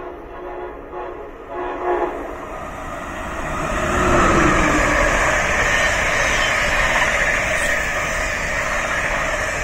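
Amtrak passenger train hauled by a Siemens ACS-64 electric locomotive, sounding short horn blasts as it approaches. It then passes close at speed with a loud, steady rush of wheels on rail and air.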